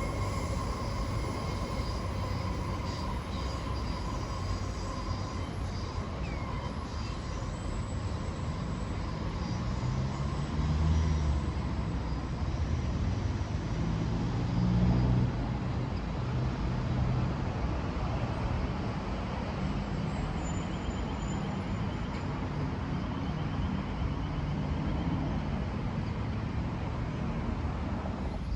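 Sydney Metro driverless train (Alstom Metropolis) running at the station: a steady electric whine fades over the first several seconds, leaving a low rumble that swells a couple of times.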